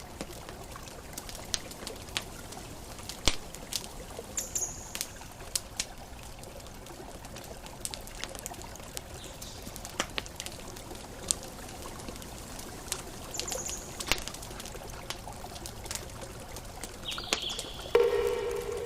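Campfire crackling: scattered sharp pops and snaps over a steady hiss, with a couple of brief high chirps. A louder pitched call starts near the end.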